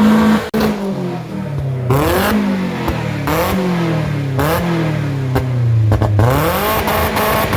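Car engine being revved hard: several quick throttle blips, each rising sharply and falling back more slowly, then the revs climb and hold high near the end.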